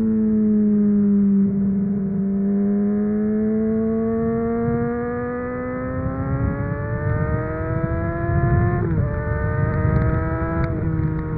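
Honda CBR600RR's inline-four engine through a MIVV aftermarket exhaust, pulling hard with the revs climbing steadily, then two quick upshifts near the end, each a sudden drop in pitch. Wind buffeting underneath.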